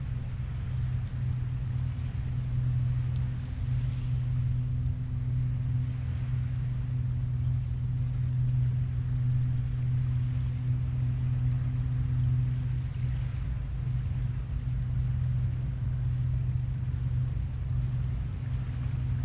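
Small waves washing gently onto a beach at low tide, coming in soft swells every few seconds, under a steady low engine-like hum that is louder than the surf.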